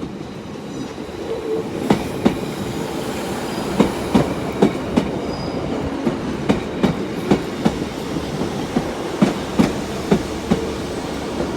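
Class 150 Sprinter diesel multiple unit rolling slowly along the platform, its wheels clicking over rail joints and pointwork, often in pairs, about one to two clicks a second over a steady low rumble.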